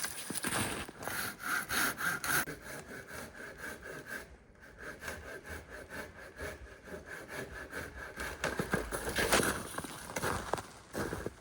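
Hand saw cutting through wood in back-and-forth strokes, most regular in the first couple of seconds, then uneven scraping and knocking.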